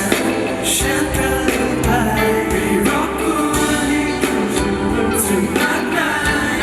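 Live band music with singing, a steady beat with cymbals and a voice over it, from a band sound check.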